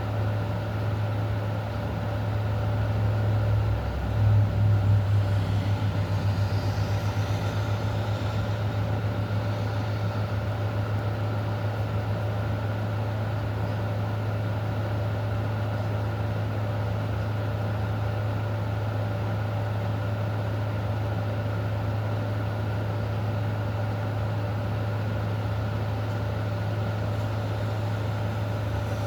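A steady low mechanical hum with a few steady higher tones over a faint hiss. It swells and pulses for a couple of seconds about four seconds in, then settles back.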